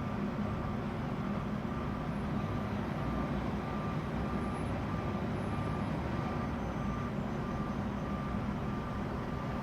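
Truck reversing alarm beeping at an even pace, about three beeps every two seconds, over the steady running of the truck's engine.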